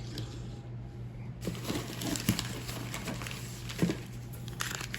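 Rustling and small clicks of die-cast toy cars being handled and picked out of a box, with two sharper clacks, over a steady low hum.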